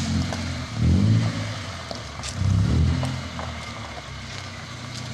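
Toyota Starlet's 1.3-litre 4E-FE four-cylinder engine, non-turbo, being revved in short blips. Each rev swells and dies back to idle, about two seconds apart.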